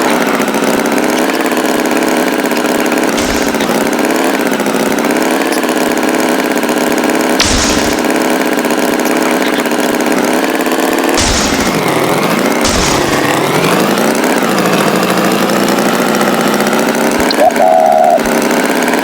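Tractor engine running steadily, its pitch wavering slightly, with a few short hissing bursts and a brief drop and rise in pitch around the middle.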